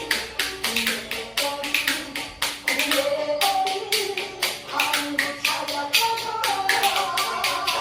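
Spoons clicked together as percussion, tapping out a quick steady rhythm of sharp clicks over a recorded Korean trot backing track with a melody line.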